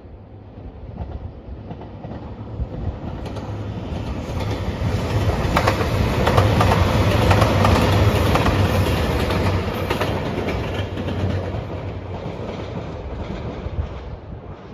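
JR Shikoku 2700 series diesel limited express passing by, its engines droning low while the wheels clack over the rail joints. It builds up, is loudest about halfway through as the cars go by, then fades away near the end.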